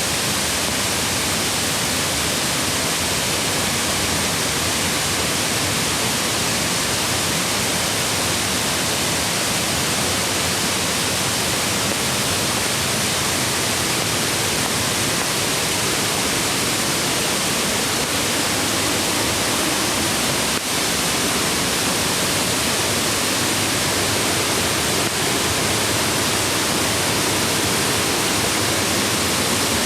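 Steady rushing of a mountain creek, an even wash of water noise with no break.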